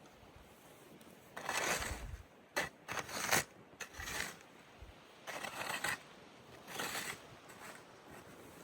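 Snow being dug and scraped with a shovel: a string of irregular scraping strokes, about six, each up to a second long.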